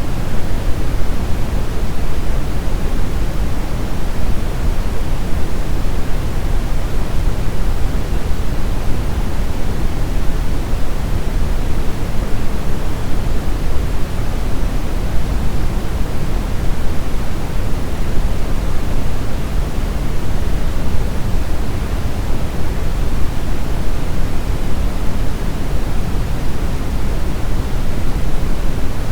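Steady brown noise: an even, unchanging rushing hiss that is strongest in the deep bass and falls away toward the treble.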